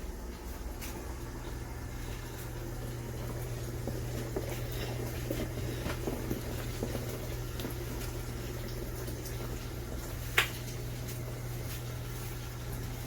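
Costway portable mini washing machine running a wash, its motor humming steadily while water sloshes in the tub. A single sharp click about three-quarters of the way through.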